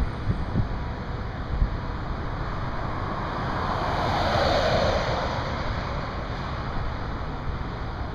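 Highway traffic: one vehicle's tyre noise swells up and fades away about four to five seconds in, over a steady wash of traffic and wind buffeting the microphone with a few low thumps near the start.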